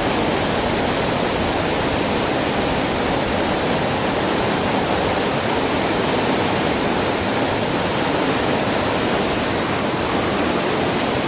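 Steady rush of fast-flowing, swollen river water.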